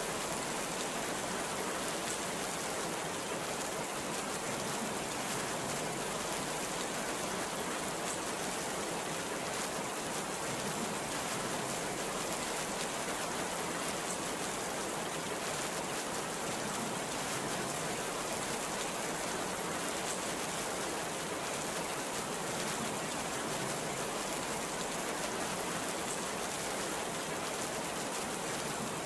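Heavy rain pouring steadily: a dense, even hiss with a few faint separate drop ticks.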